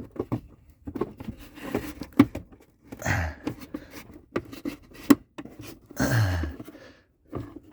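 Small clicks and knocks of diesel-heater parts being handled and fitted back into place. About 3 s and again about 6 s in there are brief low vocal sounds like grunts or breaths.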